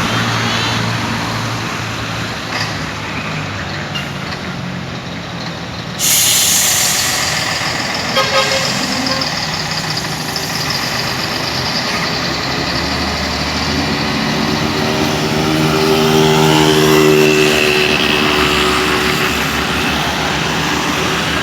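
Scania 124L 420 trucks' straight-six diesel engines running as the heavy convoy passes, with a sudden hiss of air starting about six seconds in. Near the end a deep engine note swells and falls away as a truck goes by.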